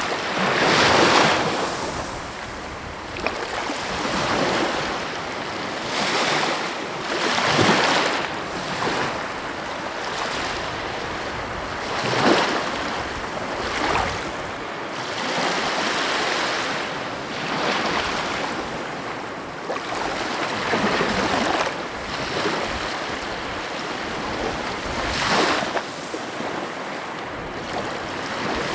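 Sea waves breaking and washing on the shore: a continuous rushing hiss that swells with each wave every few seconds.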